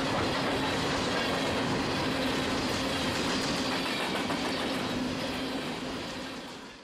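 Empty coal hopper cars of a freight train rolling past, wheels clicking over the rail joints under a steady hum, fading out near the end.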